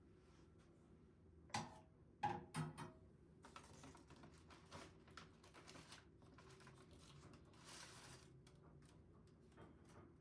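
Light household handling sounds: a few sharp clacks about a second and a half in, then a run of quick, soft taps and rustles.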